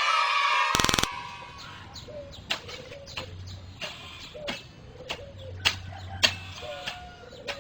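A person sneezing: a loud drawn-in voiced build-up breaking into a sharp burst about a second in. It is followed by scattered faint clicks and short chirping sounds.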